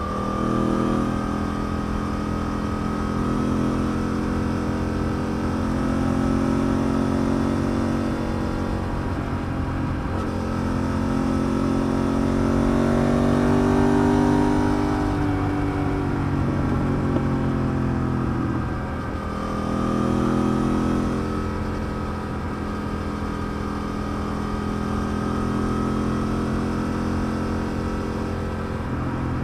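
Yamaha TDM900's parallel-twin engine running while the motorcycle is ridden, its pitch rising and falling with the throttle: it climbs to its loudest near the middle and dips briefly about a third of the way in and again about two-thirds through.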